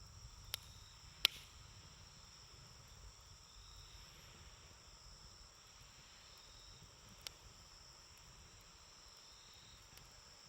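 Wood campfire burning, with a few sharp pops: two in the first second and a half, the second the loudest, and another about seven seconds in. Under them runs a steady high chirring of insects.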